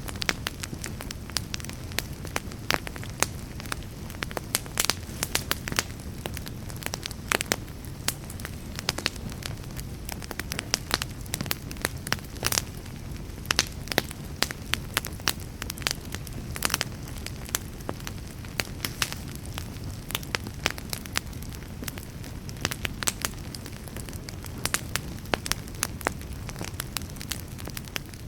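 Fireplace fire crackling, with many sharp snaps and pops at irregular intervals over a steady low rumble.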